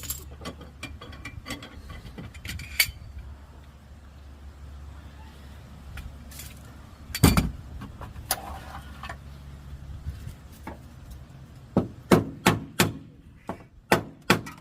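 Sharp metallic knocks and clanks of body-repair tools working a dented car body panel: a loud single knock about seven seconds in, then a quick run of about six knocks near the end, over a steady low engine hum.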